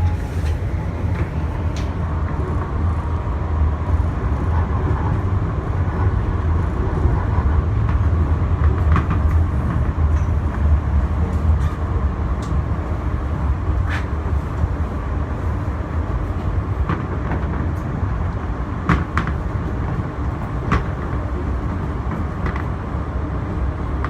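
R160B Siemens subway car running along the track, heard from on board: a steady low rumble of wheels on rail with sharp clicks now and then.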